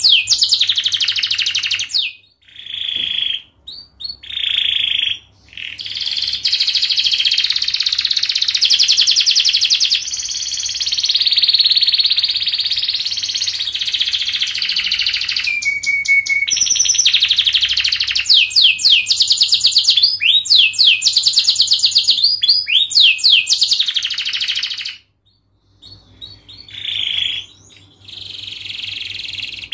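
Domestic canary singing a long, fast song of rapid trills and rolls, each phrase running straight into the next. There are brief pauses about two seconds in and again near the end.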